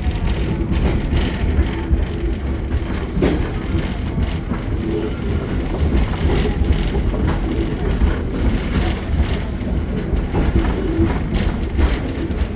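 Steam train running along the track, heard from aboard: a steady low rumble from the cars with the clack of wheels over rail joints.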